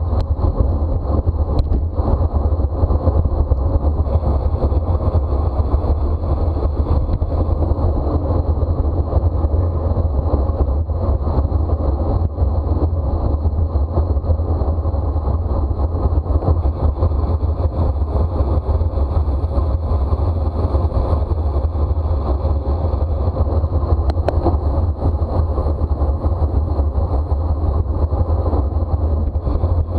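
Wind rushing and buffeting over the microphone of a camera on a racing bicycle at speed: a loud, steady low rumble with hiss above it.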